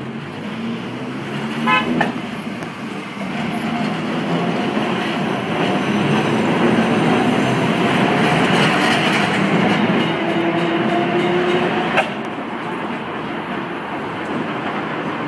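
New Orleans St. Charles streetcar running along its rails, the rolling noise building over several seconds. There are two sharp strikes about two seconds in and a single sharp click later on.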